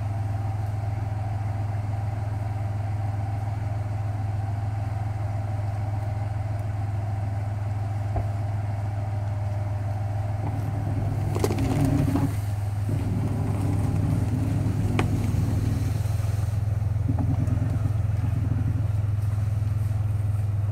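Off-road SUV's engine running at a steady low idle. From about halfway through it works harder, with an uneven added rumble and a couple of clunks, as the vehicle creeps forward through a muddy, water-filled ditch.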